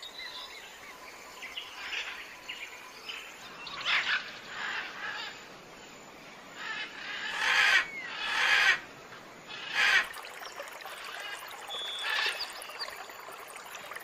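Bird calls: a series of harsh, noisy calls, the loudest three coming close together about eight to ten seconds in, over faint chirping.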